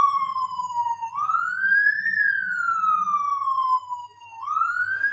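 Police car siren wailing, its pitch rising and falling slowly, roughly one sweep up and down every three seconds.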